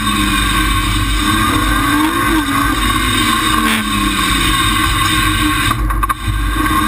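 Straight-six engine of a BMW Compact M3ti rally car heard from inside the cockpit, working hard through a tight section of a stage. The revs rise about two seconds in and then fall away over the next few seconds, with a brief dip in the sound about six seconds in.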